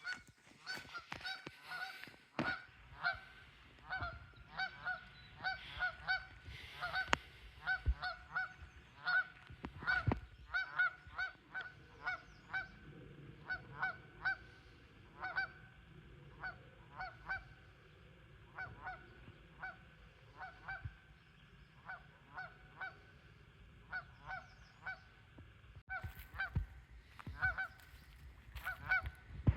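Geese honking over and over, short calls coming a few a second with no let-up.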